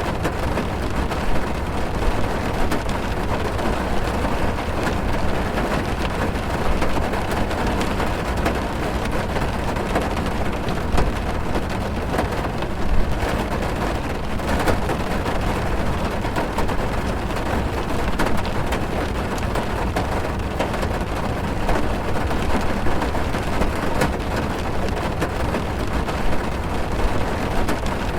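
Heavy rain drumming on a car's roof and windows, heard from inside the car: a steady dense patter of many small drop impacts, with a deep rumble underneath.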